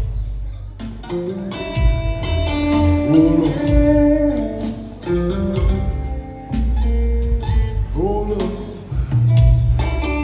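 Live rock trio playing an instrumental passage: electric guitar with bent notes over bass guitar and drums.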